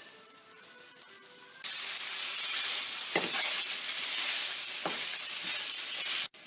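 Marinated chicken tikka pieces sizzling in oil in a frying pan over low heat, with a few spatula scrapes as they are stirred. The sizzle starts suddenly about a second and a half in and cuts off abruptly near the end.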